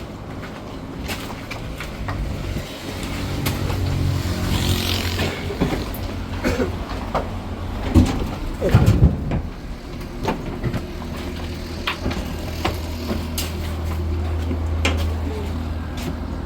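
A truck engine running with a steady low hum that swells twice, with scattered knocks and rattles over it.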